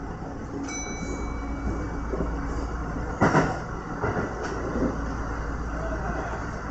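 Kintetsu 1031 series electric train running, heard from the driver's cab as it comes into a station: a steady rumble of wheels on rail, a brief high whine about a second in, and one loud clack about three seconds in.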